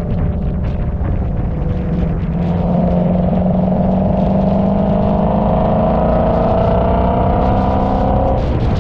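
Car engine pulling at steady throttle, its note climbing slowly for several seconds and then cutting off suddenly near the end, over heavy road and wind rumble.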